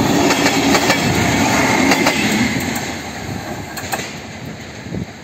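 Railway carriages rolling over a rail joint: wheels clacking and rumbling, with a light wheel squeal. It fades after about two and a half seconds as the end of the train passes.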